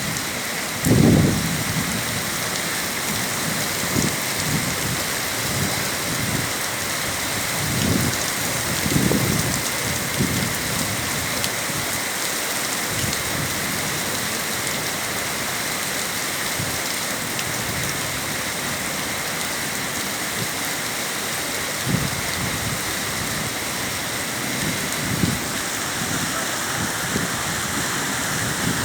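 Heavy rain falling steadily in a continuous hiss, with a few brief low thumps, the loudest about a second in.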